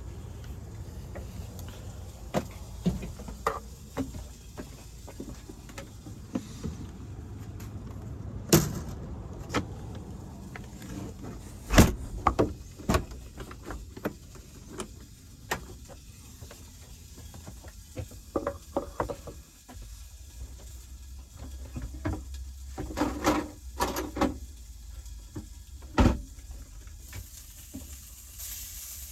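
Scattered knocks, clicks and a few sharp thuds over a low steady rumble, like doors and objects being handled. Near the end the hiss of smokies sizzling in a frying pan comes in.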